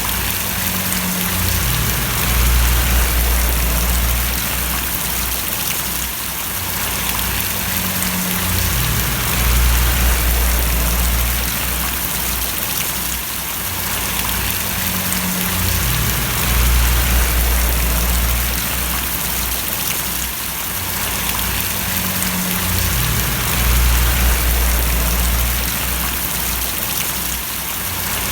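Steady rain falling, a continuous hiss of drops. Under it a low rumble swells and fades about every seven seconds.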